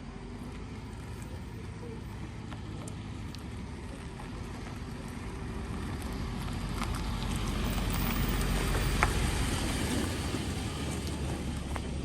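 Vehicle engine and road noise, a steady low rumble that grows louder toward the middle with a few small clicks and rattles.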